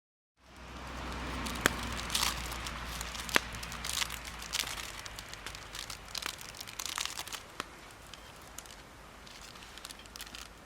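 Wood campfire crackling with sharp snaps now and then, fading in at the start over a low steady rumble and growing quieter toward the end.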